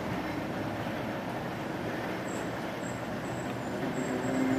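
Museum tram 765 running along its track: a steady rail rumble that grows a little louder near the end.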